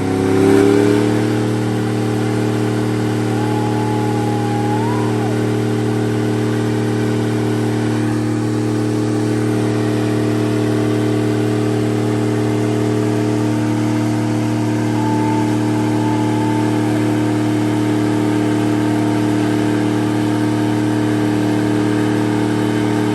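A vehicle engine revs up briefly and is then held at steady, high revs for over twenty seconds.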